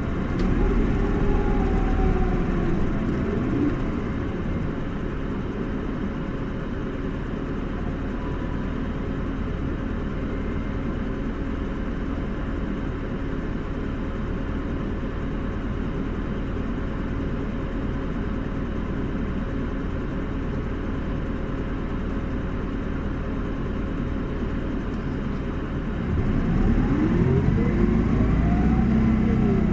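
Isuzu Erga city bus's diesel engine heard from inside the cabin: it slows over the first few seconds, then idles steadily and quietly for about twenty seconds. Near the end it pulls away again, the engine note sweeping upward as the bus accelerates.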